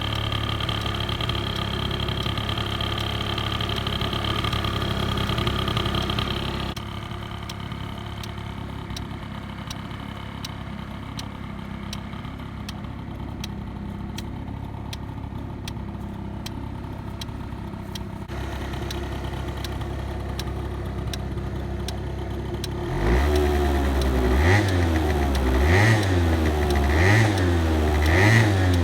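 Honda Live Dio AF35 scooter's 50cc two-stroke single-cylinder engine idling steadily, its level dropping about a quarter of the way through and picking up again. Near the end the throttle is blipped repeatedly, the engine revving up and back down about once a second.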